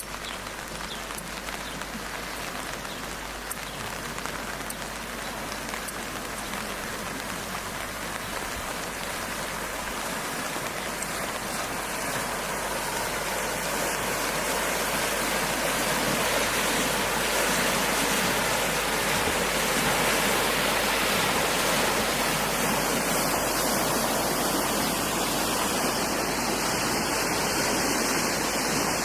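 Steady rain falling, an even hiss that grows louder over roughly the first half and then holds steady.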